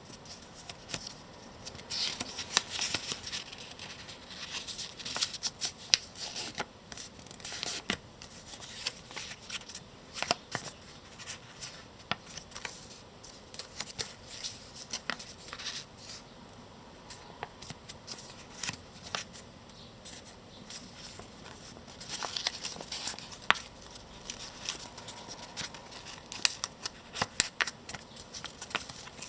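A small sheet of paper being folded and creased by hand: irregular rustling and sharp crinkles, coming in clusters with short lulls between.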